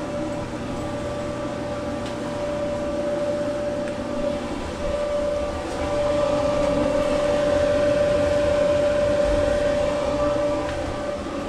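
Frigidaire FDE648GHS0 electric dryer running with its drum turning: a steady rumbling hum with a constant whining tone, a little louder in the middle.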